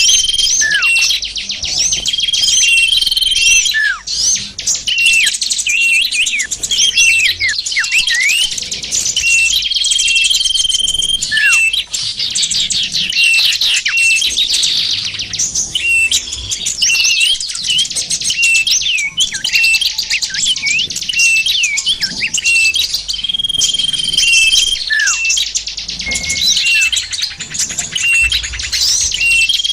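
Lure-call recording of many small songbirds calling at once: a dense, continuous twittering of chirps and quick down-sweeping notes, with a steady high whistle that recurs every few seconds. It is a mix meant to draw small wild birds in for trapping.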